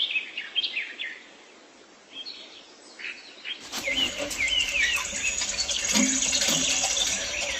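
Small birds chirping in short, quick pitch-gliding calls. About three and a half seconds in, a busier stretch begins, with denser chirping over a steady outdoor hiss and a few clicks.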